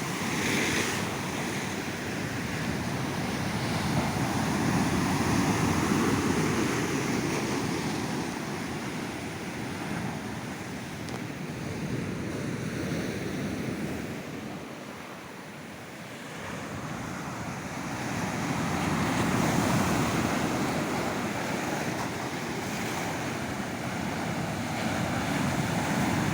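Sea surf breaking on a beach, swelling and easing slowly as waves come in and wash back, with some wind on the microphone.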